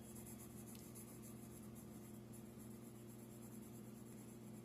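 Faint scratching of a drawing tool on paper as hatching strokes are made, over a steady low electrical hum.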